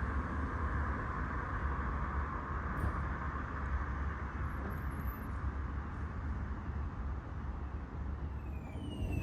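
Tram in motion, heard on board: a steady low rumble with wheel and running noise that eases off about halfway through. Just before the end a short falling tone starts repeating.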